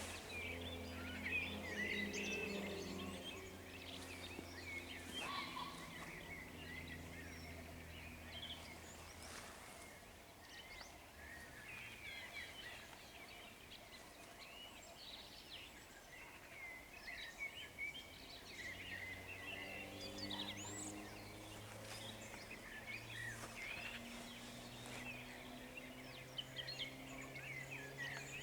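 Dawn chorus of many songbirds over open meadow: overlapping chirps, trills and song phrases throughout. A low droning hum is heard underneath at the start and returns in the second half.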